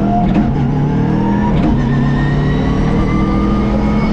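Subaru Impreza WRX STI rally car's turbocharged flat-four engine under hard acceleration on a special stage. The engine note drops at a gear change about half a second in, then rises steadily in pitch until the next shift near the end.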